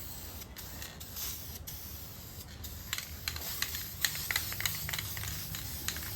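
Aerosol spray paint can hissing as it sprays, being emptied of its last paint. Short clicks and ticks come in from about three seconds in.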